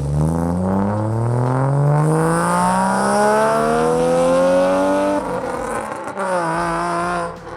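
1992 Subaru SVX's EG33 3.3-litre flat-six through a full stainless-steel exhaust, accelerating with its note rising steadily for about five seconds. The note then breaks, settles lower and steady, and falls away in level near the end.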